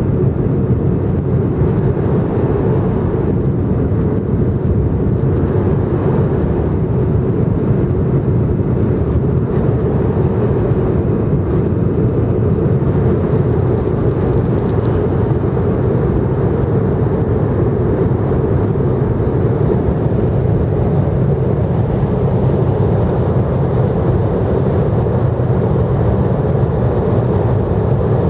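N700 series Shinkansen running at high speed, heard inside the passenger car: a loud, steady low rumble with a rushing noise above it.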